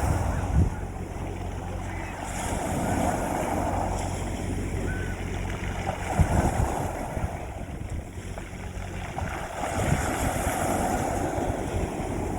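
Sea waves washing onto a beach, the surf swelling and falling back three times, a few seconds apart, over a steady low rumble.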